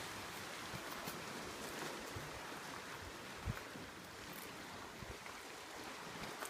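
Sea waves washing on a rocky shore as a steady hiss, with a few faint sharp crackles from a campfire. A single low thump comes about three and a half seconds in.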